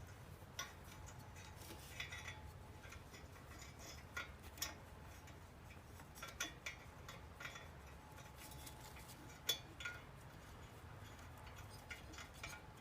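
Faint, irregular metallic clicks and clinks of small metal parts and hand tools being handled, over a low steady hum.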